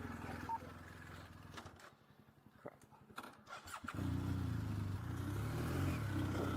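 Police motorcycle engine running, then dropping away after about two seconds to a few clicks and knocks. About four seconds in the engine starts up again and runs with its pitch rising and falling.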